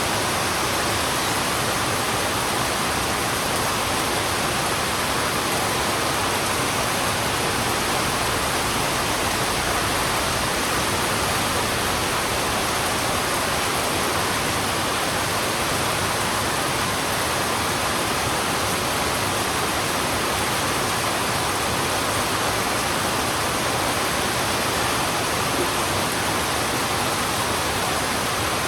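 Heavy rain falling steadily on a road: an even, unbroken hiss with no separate drops or other events standing out.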